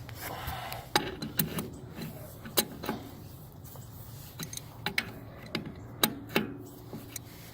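Scattered sharp metallic clicks and clinks of hand tools at the plow's hydraulic reservoir as it is opened to drain the fluid, over a low steady hum.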